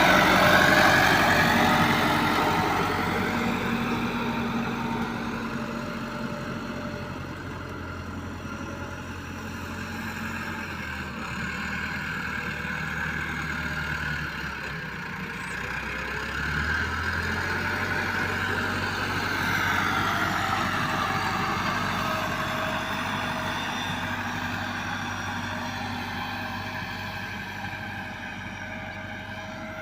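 Massey Ferguson 385 tractor's diesel engine running steadily, its sound swelling and fading as it moves: loudest at first, softer, louder again about two-thirds of the way through, then fading toward the end.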